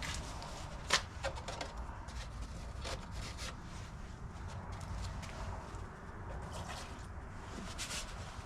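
Scattered clicks, taps and rubbing from handling snowblower parts and tools, with a sharp click about a second in and another near three seconds, over a low steady hum.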